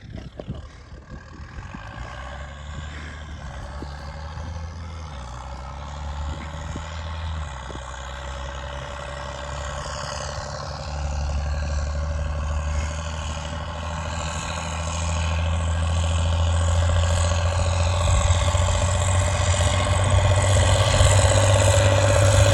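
Tractor engine running steadily, growing louder throughout, with a step up in level about eleven seconds in.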